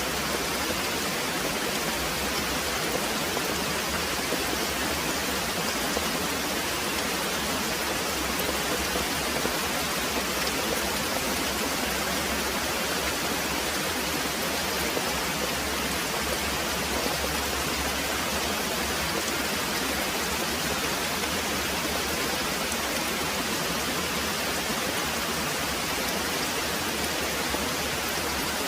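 Very heavy rain pouring steadily, an even hiss at a constant level with no distinct thunderclap.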